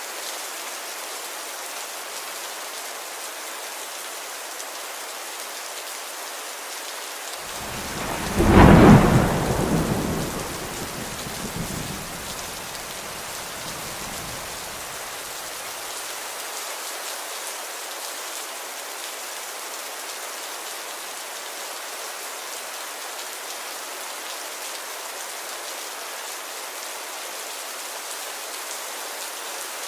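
Steady rain falling, with one loud clap of thunder about eight seconds in that rumbles away over the next several seconds.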